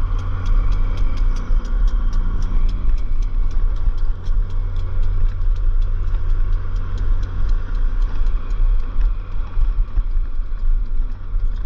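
Wind rumbling on the microphone, with a steady light ticking about four times a second.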